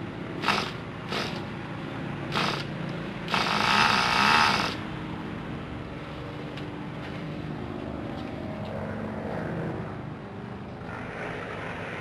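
A brand-new Kyosho GS11X engine in an RC car running steadily on its first run, with three short louder bursts in the first couple of seconds and one longer, loudest burst of about a second and a half near the middle.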